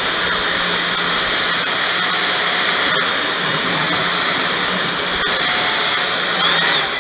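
Cordless stick vacuum's brushless motor running at full speed while vacuuming up coffee grounds: a steady high whine over a loud rush of air. Near the end the pitch rises briefly, then the motor is switched off and the whine starts to wind down.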